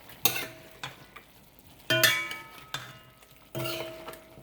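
Metal spoon knocking against a metal cooking pot while stirring, about four clanks, each ringing out briefly, the loudest about two seconds in.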